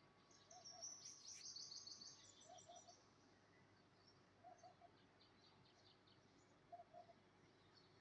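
Faint morning birdsong: a burst of rapid high chirps and trills in the first few seconds, then scattered chirps, while a lower short three-note call repeats about every two seconds.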